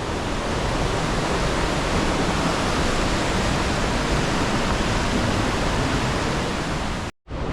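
Rushing water of a waterfall: a loud, steady, even noise. It cuts out for a moment near the end.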